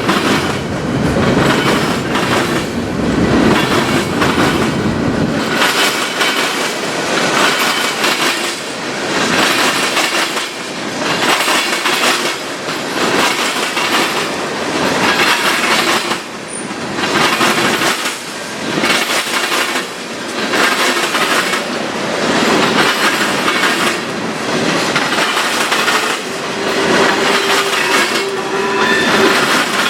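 Train rolling past close by, its wheels clacking over the rail joints in a steady, regular rhythm. A deep rumble underneath drops away about five seconds in.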